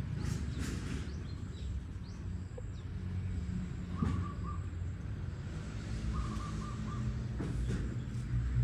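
Two brief runs of quick, short chirping calls from an animal, over a steady low rumble.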